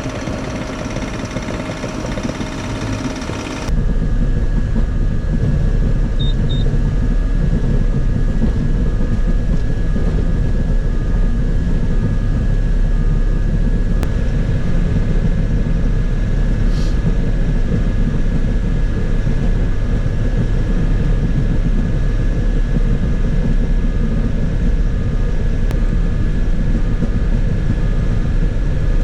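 Bobcat E50 mini excavator's diesel engine running steadily with a heavy low rumble. About four seconds in, the sound jumps abruptly to a louder, deeper run carrying a steady high whine and a faint beep that repeats at an even pace.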